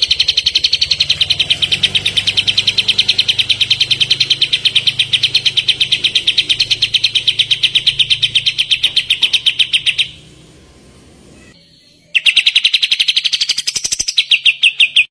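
A kapas tembak singing its song, a very rapid, evenly repeated rattle of high notes. The song stops about ten seconds in and starts again two seconds later, first rising in pitch, then settling back into the same fast rattle.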